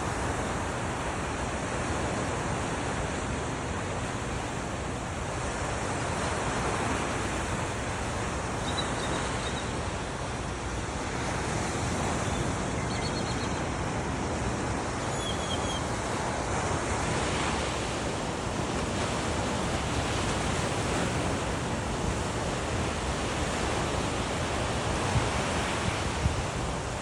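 Ocean surf washing onto a beach, a steady hiss that swells and eases. A few short high bird chirps come in briefly about a third of the way through and again near the middle.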